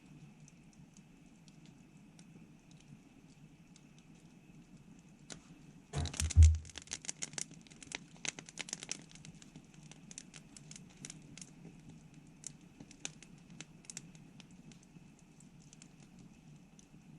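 Wood campfire crackling with scattered sharp pops. About six seconds in there is a dull thump, followed by a quick flurry of crackles that thins out over the next few seconds.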